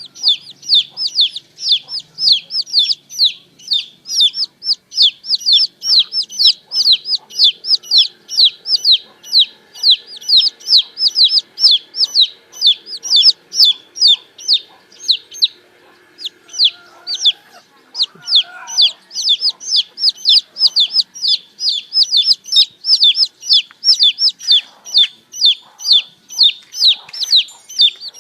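Baby chicks peeping: a rapid stream of high, short, downward-sliding peeps, about four a second, with a brief lull a little past halfway.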